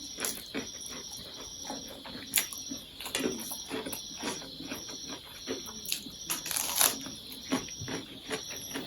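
Close-up eating sounds from noodles being chewed: irregular small wet clicks and smacks, with a brief louder noisy sound about seven seconds in.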